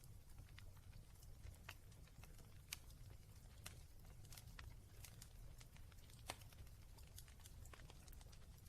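Fire in a fireplace crackling faintly, with scattered sharp pops at irregular moments over a low steady rumble.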